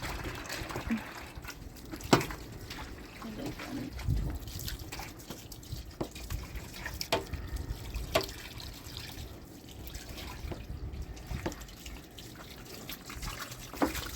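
Water dripping and splashing, with scattered sharp knocks and clatters, the loudest about two seconds in.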